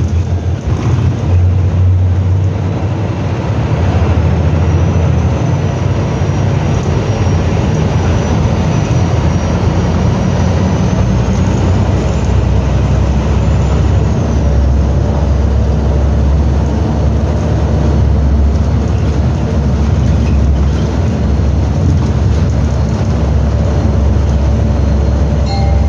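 Scania F360HA bi-articulated bus running on the move, a steady low engine and drivetrain sound. A thin high whine rises a few seconds in, holds, and falls away about halfway through.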